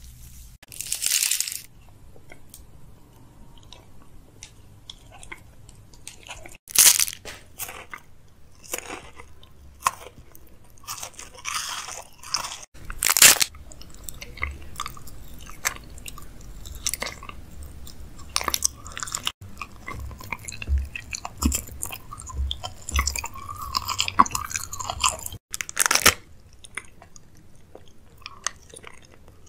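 A person biting, crunching and chewing sweets. Several sharp, loud crunches stand out among quieter chewing and mouth clicks.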